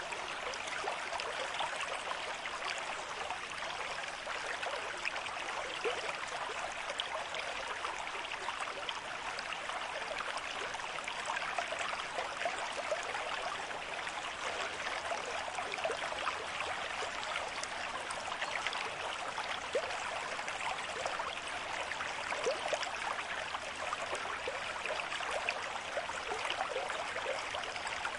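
River stream with a moderate flow, water running steadily over its bed with many small, quick splashes.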